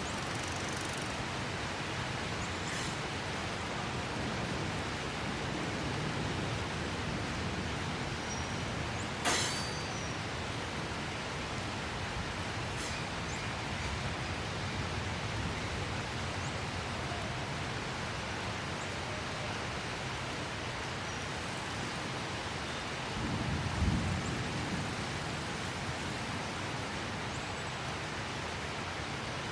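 Steady heavy rain hissing without a break. A sharp click comes about nine seconds in, and a brief low rumble follows around two-thirds of the way through.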